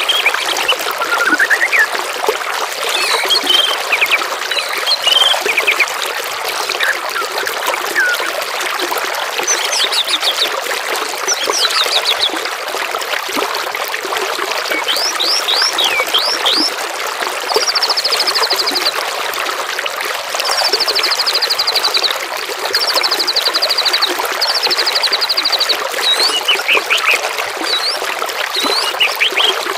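Steadily trickling, babbling water with a mix of songbirds singing over it: scattered quick whistles and down-slurred notes, then from about halfway, several high, rapid trills of about a second and a half each.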